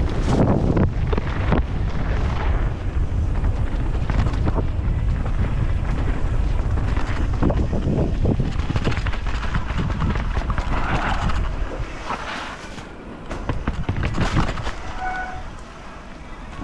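Wind buffeting the microphone of a mountain bike speeding downhill, with rattles and knocks from the bike jolting over rough ground. The wind rush drops away about twelve seconds in as the bike slows, and a brief high tone sounds near the end.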